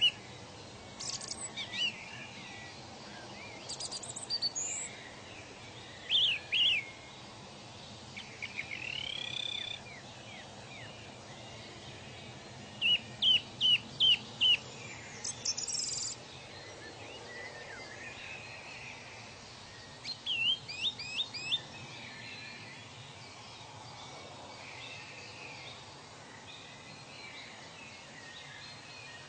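Several birds calling in short runs of quick repeated chirps, with a rising whistle about a third of the way in, over a steady background hiss of outdoor ambience. The calls die away in the last several seconds, leaving only the hiss.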